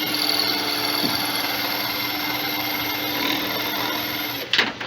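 Electric drill running steadily as it bores a rivet hole in the washing machine's base, with a constant motor whine. It stops about four and a half seconds in, followed by a couple of knocks.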